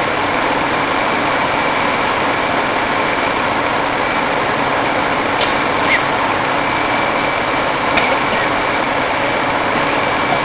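Engine running steadily with a faint high whine, and a few short clicks around the middle.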